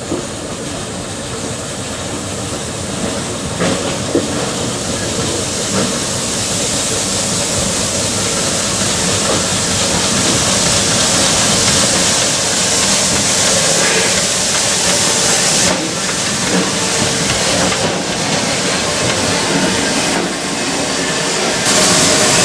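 Narrow-gauge steam tank locomotive working, a steady hiss of steam growing gradually louder as it approaches.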